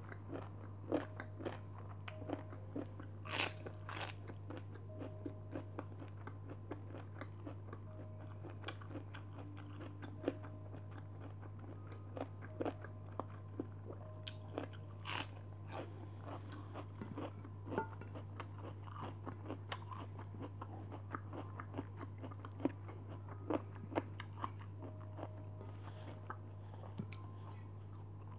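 A person chewing with crisp, irregular crunches from bites of raw cabbage leaf, picked up close by a clip-on microphone. A steady low hum runs underneath.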